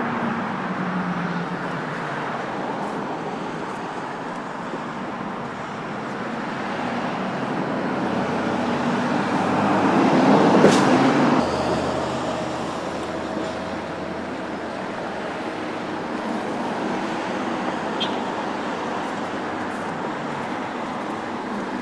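A road vehicle passes by. Its noise swells to a peak about halfway through, then fades to a low steady hum.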